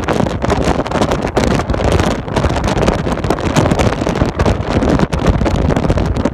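Strong wind buffeting the microphone, a loud, rough, fluttering roar with no letting up.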